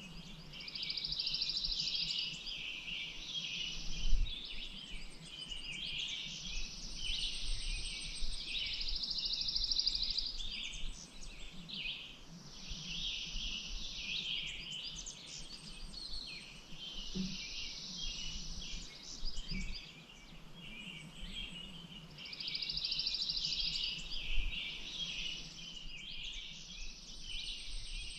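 Songbirds singing, several songs overlapping in bouts of a few seconds with short pauses, including a fast high trill. There is a low thump about four seconds in.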